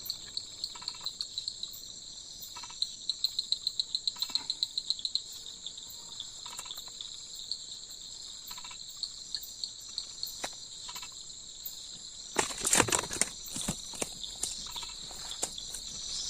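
Crickets and other insects chirping steadily in high pulsed trills. About three-quarters of the way through comes a short cluster of sharp clicks and knocks.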